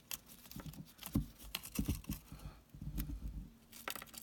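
Irregular soft knocks, taps and rustles from hands working close to the microphone, with several low thumps.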